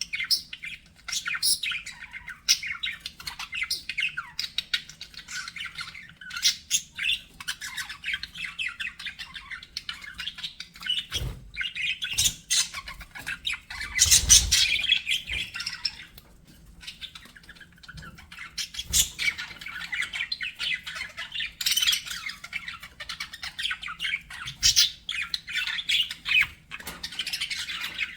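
A group of budgerigars chattering, with rapid warbled notes, chirps and squawks overlapping without a break. A few low knocks come in, the loudest with a louder flurry about halfway through.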